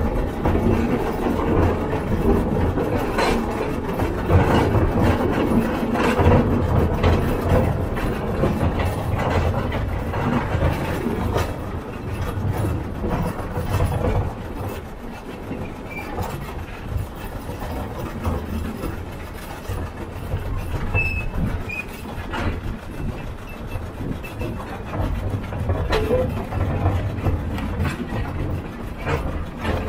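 Narrow-gauge field railway train running, heard from aboard: the wheels rattle and clack over the track and there is a low running rumble from the train, quieter through the middle stretch.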